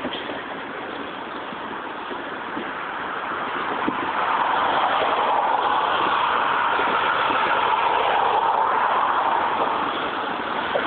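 Freight train of boxcars rolling past, a steady noise of steel wheels on the rails with faint irregular knocks, growing louder about four seconds in.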